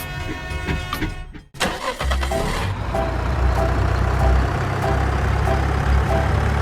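Background music ending with a sudden cut about a second and a half in, then a small engine starts up and runs steadily with a low hum, consistent with a homemade mini tractor's motor.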